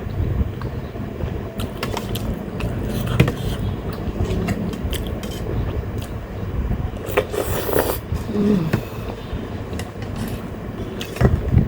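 Close-up eating sounds: chewing, scattered clicks of a spoon on a plate and a louder slurp of soupy momo about seven and a half seconds in, over the steady hum of an electric fan.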